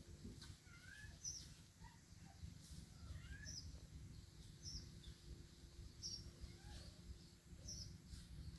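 Faint outdoor ambience in which a small bird repeats a short, high chirp about every one and a half seconds, with a few lower chirps from other birds.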